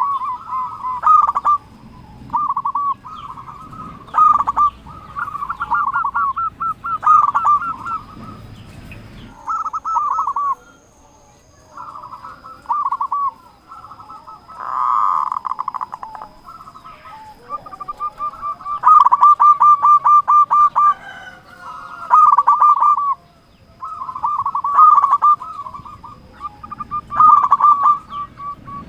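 Zebra dove (perkutut) cooing over and over, each phrase a quick run of pulsed notes, with short gaps between phrases. A brief noisy burst sounds about halfway through.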